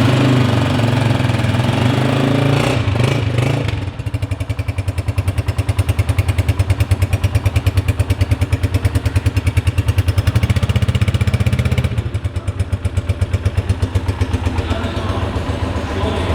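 2022 Honda CG125 Special Edition's single-cylinder four-stroke engine running for a sound test: louder and denser for the first four seconds, then settling into an even, rapid idle beat.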